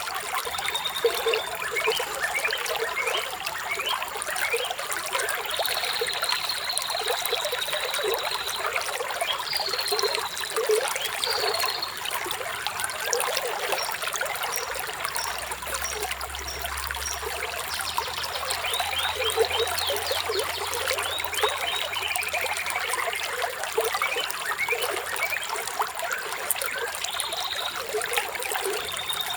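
Flowing water trickling and splashing steadily, with birds chirping now and then above it; one call about six seconds in is held for roughly two seconds.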